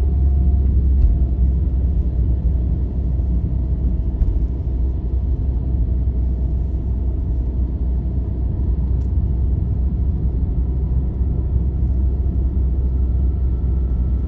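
Vehicle travelling on a highway: a steady, heavy low rumble of engine and tyres on the road. A faint whining tone fades away in the middle, and a higher one comes in near the end.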